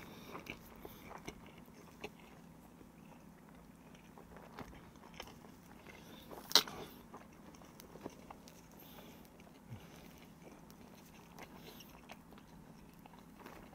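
A person chewing a large mouthful of ham-and-cheese toast with the mouth closed, soft wet mouth sounds and faint clicks, with one sharp click about halfway through.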